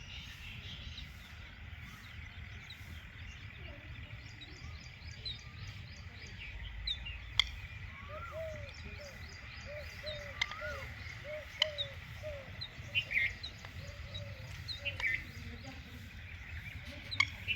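Birds chirping and calling: many short high twitters and a run of short, repeated arched notes, with a few sharp clicks over a low rumble.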